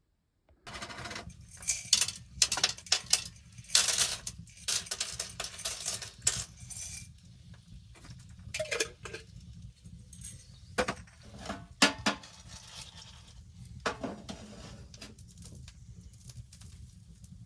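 Irregular scraping, crunching and clinking handling noises, thickest in the first few seconds and then sparser, over a steady low rumble.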